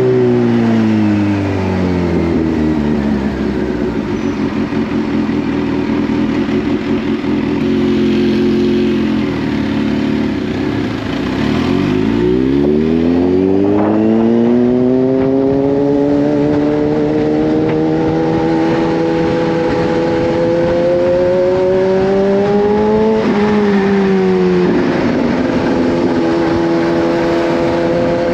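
Kawasaki Z H2's supercharged inline-four engine under way. The revs fall as the bike slows, sink to their lowest about halfway through, then climb steadily as it pulls away again. There is a quick dip in pitch at a gear change near the end, then a steady cruise with wind noise.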